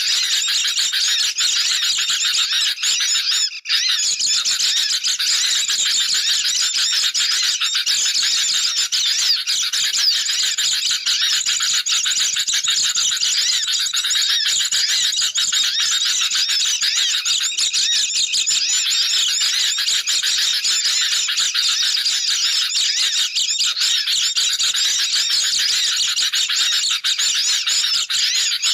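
Dense, continuous chattering of many sooty-headed bulbuls and white-eyes calling over one another, a bird-lure recording made to be noisy. A brief break about three and a half seconds in.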